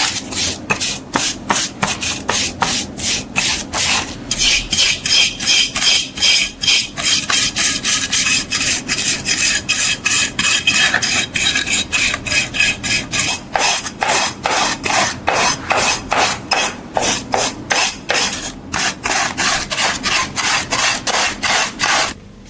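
Hand abrading of a metal part: rhythmic back-and-forth scraping strokes, about three a second, that stop abruptly near the end.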